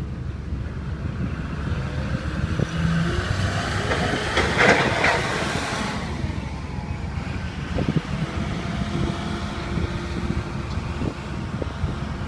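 Steady low rumble of the ferry Salvia Maru under way as it comes alongside, with wind on the microphone. A louder hissing rush swells about four seconds in and dies away by six.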